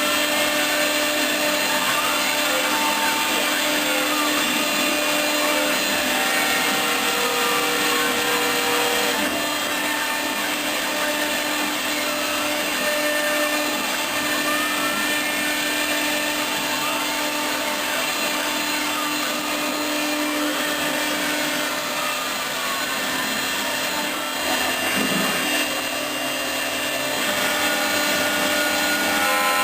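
Home-built CNC router running: a steady motor tone under a wide hiss, with shorter tones that change pitch or glide up and down every second or two as the machine moves.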